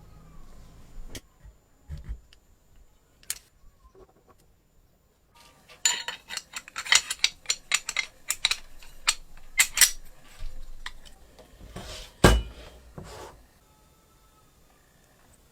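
Small metal parts clinking and tapping against each other and a hard surface: a few scattered clicks, then a quick run of clinks, and one sharp knock near the end.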